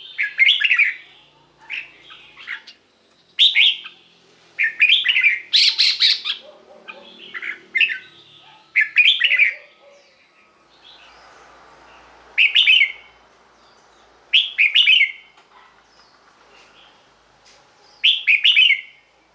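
Red-whiskered bulbul singing short, loud song phrases one after another, close together at first and then with longer pauses of a few seconds in the second half.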